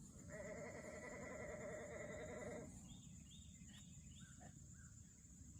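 A farm animal bleating: one long, wavering bleat lasting about two and a half seconds, faint.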